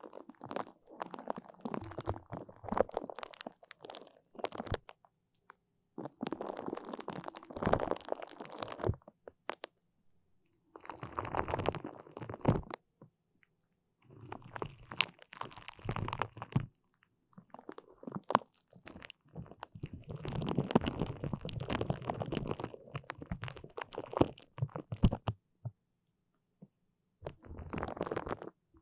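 Close-miked sticky crackling, like a tacky surface being pressed and peeled apart, in seven bursts of one to five seconds with short silent pauses between them.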